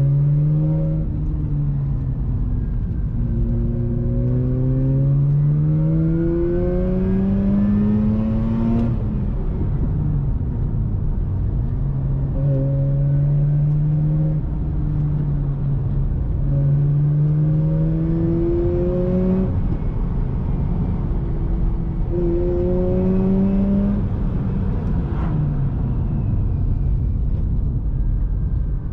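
Mazda RX-8's two-rotor Wankel rotary engine through an RE Amemiya aftermarket exhaust, pulling hard: its pitch climbs for several seconds and drops back at each gear change or lift, several times over.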